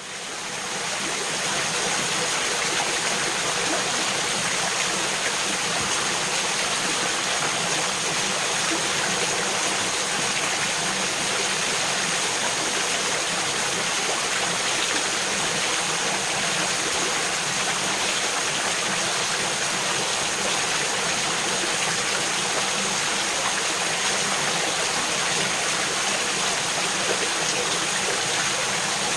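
Mountain creek babbling and splashing over small waterfalls in a rocky gorge, a steady rush of water that fades in over the first second or two.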